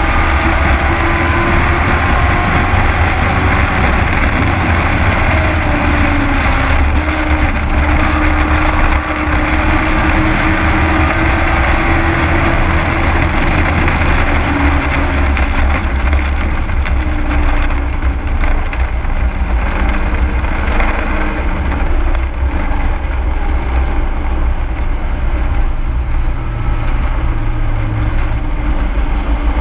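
Race truck's engine heard from inside the cab at speed, loud and continuous over a heavy low rumble, its pitch rising and falling repeatedly as the throttle comes on and off.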